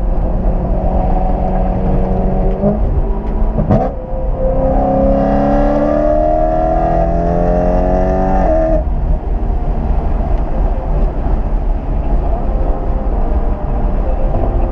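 Loud performance car engine and exhaust heard from inside the cabin. It cruises steadily, then about four seconds in it pulls hard, its pitch climbing for about five seconds before it lifts off and settles back to steady cruising.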